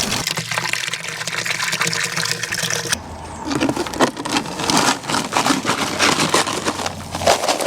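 Water gushing from a tap into a container, over a low steady hum.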